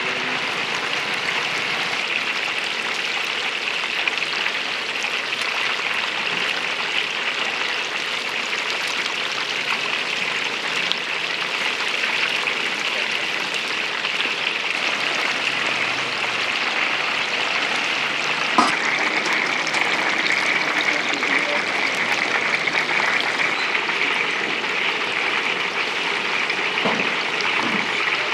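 Hot oil in a deep fryer sizzling steadily with a fine crackle. A single sharp knock comes about two-thirds of the way through.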